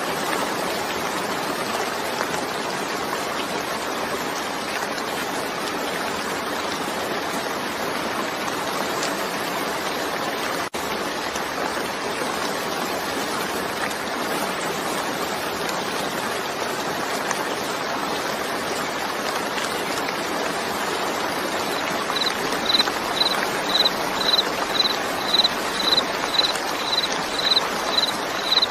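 Steady, dense hiss of heavy rain, with a momentary drop-out about ten seconds in. About 22 seconds in, a cricket starts chirping: a high chirp repeated about twice a second over the rain.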